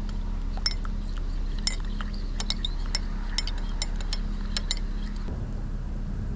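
Light, irregular metal-on-crockery clinks of a spoon and mug while tea is being made. The clinking stops about a second before the end, giving way to a steady low rumbling noise.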